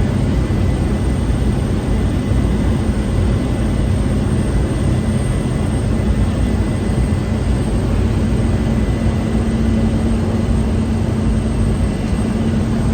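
Cessna 208 Caravan's single Pratt & Whitney PT6A turboprop engine and propeller running steadily in cruise, heard inside the cabin: an even, loud drone with a steady hum and a thin high whine above it.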